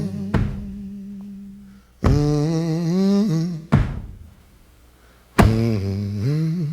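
Wordless humming vocal line in a slow blues song, with pitch bending between notes, over a sparse backing marked by a heavy thud on the beat about every second and a half.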